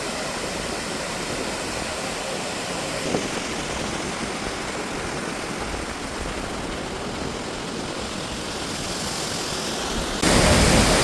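Waterfall: a steady rush of falling water, which jumps suddenly louder near the end.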